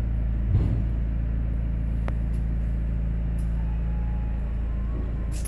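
Car engine idling steadily, with a brief knock about half a second in.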